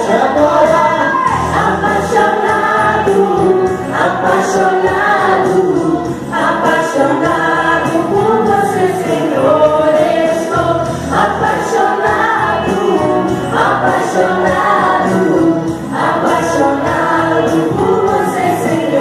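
Congregation singing a gospel hymn in Portuguese with band accompaniment, in phrases a couple of seconds long.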